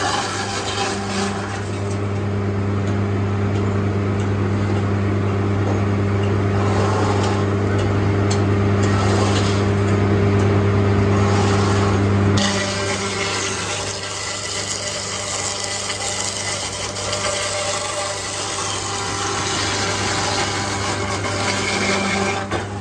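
Heavy machinery running with a steady low hum under a broad mechanical noise; about halfway through the hum cuts off suddenly and the noise carries on.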